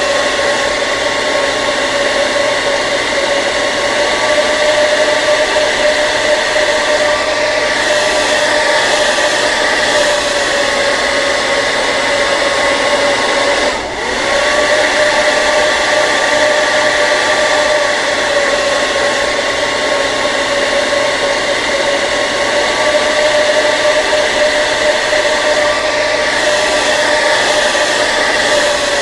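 Hair dryer running steadily: a constant rush of air with a steady motor whine over it. The sound dips briefly about halfway through.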